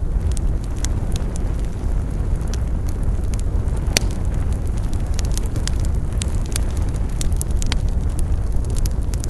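Wood campfire burning with a steady low roar and frequent sharp crackles and pops, one louder crack about four seconds in.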